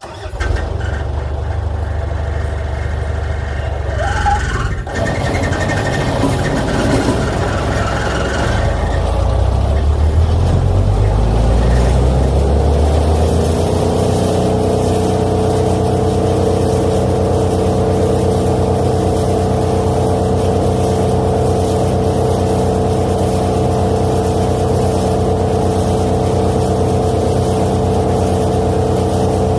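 Vermeer 10-inch wood chipper's engine running loud. It comes in suddenly, wavers through the first dozen seconds, then its pitch rises and holds steady at full speed for the rest.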